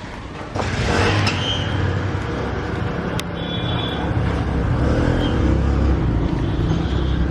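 Street traffic: vehicle engines running close by with road noise, getting louder about half a second in.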